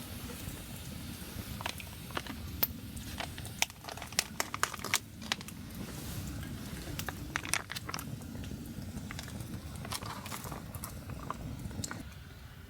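Wood campfire crackling, with irregular sharp pops over a steady low rumble; the rumble drops away near the end.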